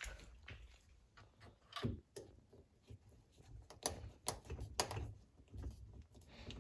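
Irregular clicks and light knocks of hand work with a screwdriver, as screws are put back into a dishwasher's fittings. Each click is short and sharp, and they come at uneven intervals, a little over a dozen in all.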